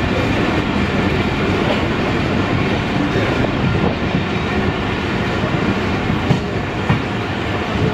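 Passenger train running along the track, a steady rumble and clatter of wheels on rails, with two sharp knocks about six and seven seconds in.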